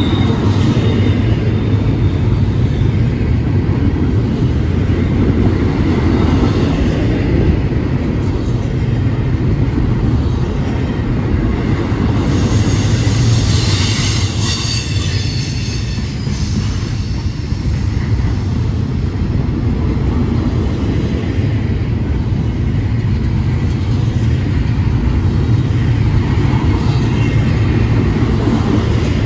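Freight cars of a long CSX intermodal train rolling past: a steady, loud low rumble of steel wheels on rail. A stretch of higher-pitched wheel squeal comes in about halfway through.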